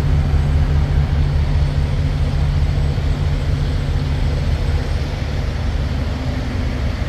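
Semi truck's diesel engine running steadily, a low even hum.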